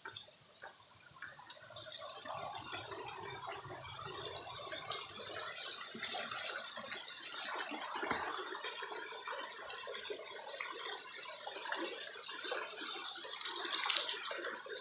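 Waterfall: water rushing and splashing steadily over rocks, growing louder near the end.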